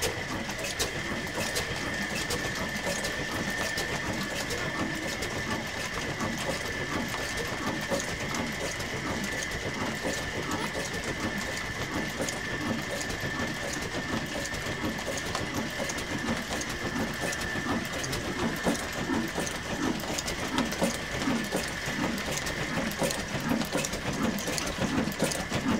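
Old black stationary diesel engine running steadily with a fast, even clatter, and a steady high whine alongside it.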